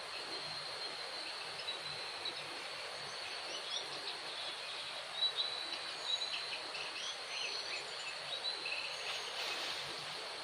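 Forest ambience: insects with a steady high buzz, and short bird chirps scattered through, busiest in the middle.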